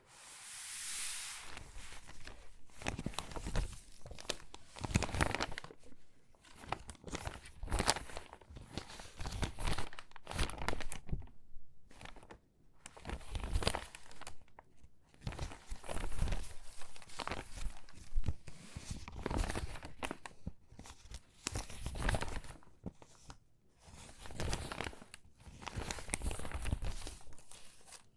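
Stiff, water-damaged magazine pages being handled and sorted, crinkling and crackling in irregular bursts of rustling with short pauses between.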